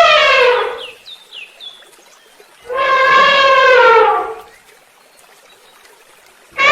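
Long, drawn-out animal calls with a clear, horn-like pitch. One call trails off, falling in pitch, just after the start, and a second call of about two seconds comes near the middle. A few faint, high chirps sound in the quieter gap between them.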